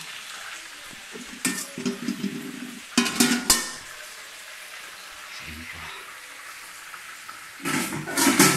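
Steady sizzling hiss of milkfish grilling in a clay pot, broken by loud bursts of knocking and rustling about a second and a half in, at three seconds, and near the end.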